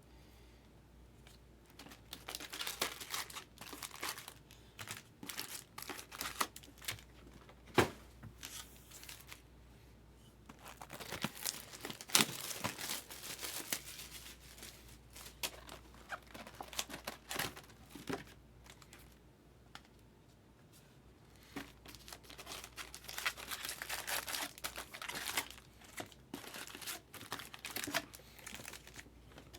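Sealed boxes of trading cards being opened: wrapping and packaging torn and crinkled in irregular spells, with a few sharp knocks, the loudest about eight and twelve seconds in.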